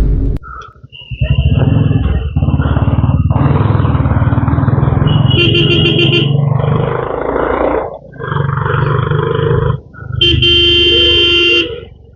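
A motorcycle runs steadily while a horn sounds in quick pulses about five seconds in and again in one longer blast near the end. Loud stretches of noise, each a second or more long with short breaks, fill the rest.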